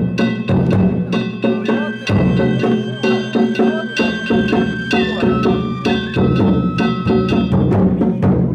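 Danjiri festival narimono: a large taiko drum, small drums and hand-struck kane gongs played together in a fast, even rhythm. The gongs ring on between strikes over the boom of the drum.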